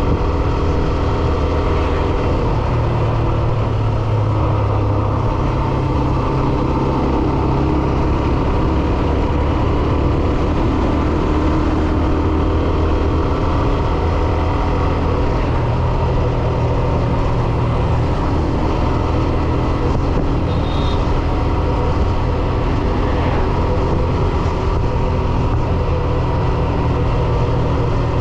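Hero Xtreme 125R motorcycle's single-cylinder engine running steadily under way, with traffic and road noise around it.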